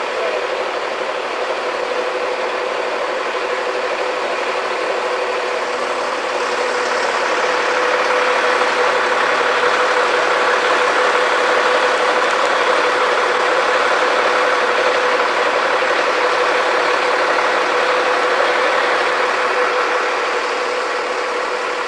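Engine of heavy construction machinery running steadily with a constant hum. It grows a little louder about a third of the way in and eases slightly near the end.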